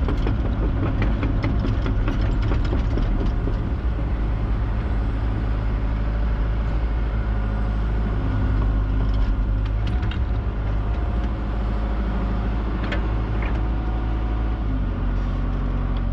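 A heavy diesel engine running steadily, with a few brief clicks over it in the second half.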